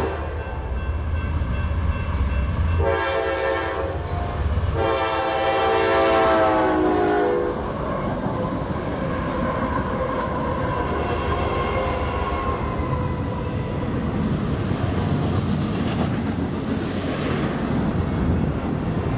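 Union Pacific freight train's multi-chime diesel horn sounding two blasts, a short one and then a longer, louder one whose pitch sags slightly as it ends. After that the lead diesel locomotives pass, and the wheels of the double-stack container cars rumble over the rails.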